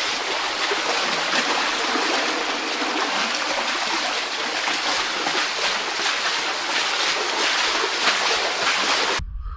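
Steady rush of splashing, flowing water in a tunnel; it cuts off suddenly near the end.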